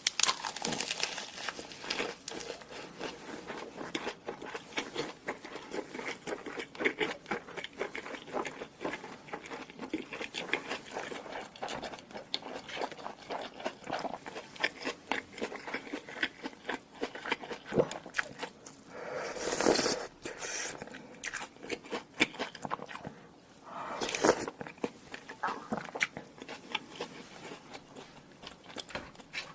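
A person chewing and biting food close to the microphone: a steady run of small crunching clicks, with two longer, louder noisy bursts about twenty and twenty-four seconds in.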